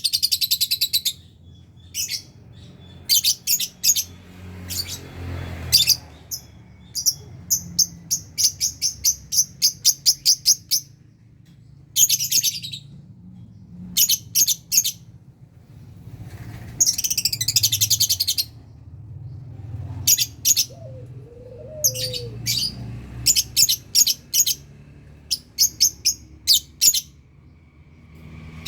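Lovebirds in a colony cage chattering: quick trains of shrill, high chirps come in bursts with short pauses between them, over a faint low hum.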